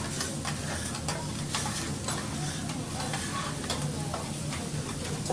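Food sizzling on a teppanyaki hot plate, with many quick scrapes and taps of metal spatulas on the griddle, over a steady low hum.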